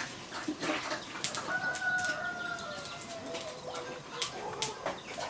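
A bird call: one long drawn-out note of about two seconds, starting a little after a second in and falling slightly in pitch. Scattered sharp clicks and knocks are heard around it.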